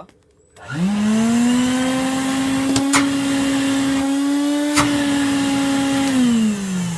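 A 1999 Numatic WVD 570 twin-motor industrial wet vac switched on: its motors spin up with a rising whine, run steadily with a couple of sharp clicks, then are switched off and wind down with a falling whine. It runs rough, which the repairer puts down to this unit running the worst of the batch.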